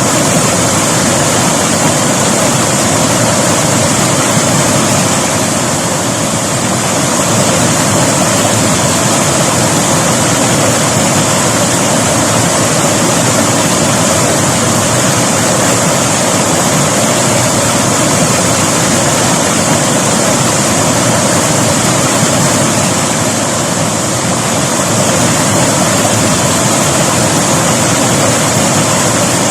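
River water rushing over rocks, a loud steady roar with small swells and dips in level.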